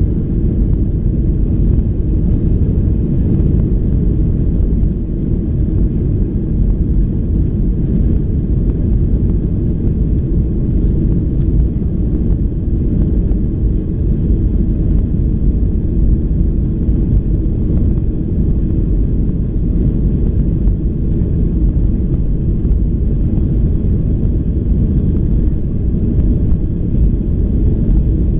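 Jet airliner engines at takeoff power, heard from inside the cabin: a loud, steady low rumble with a faint steady whine above it.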